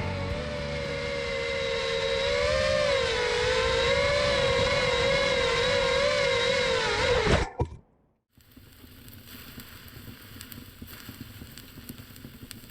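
Motors of a 5-inch FPV quadcopter whining as it flies, the pitch wavering up and down with the throttle. About seven and a half seconds in the whine drops steeply in pitch and stops as the motors spin down. A faint hiss of wind follows.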